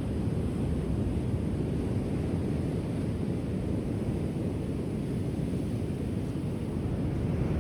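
Ocean waves washing onto a shore: a steady low rumbling wash of surf, with wind buffeting the microphone.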